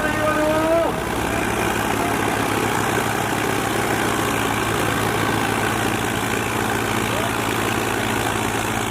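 Tractor diesel engine running steadily with an even low throb.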